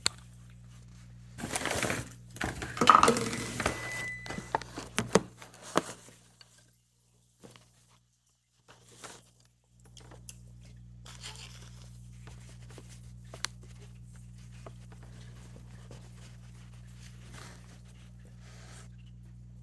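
Rustling, crinkling handling noise with a few sharp knocks for a few seconds. The sound then cuts out almost completely, and after that a steady low hum returns with scattered faint clicks.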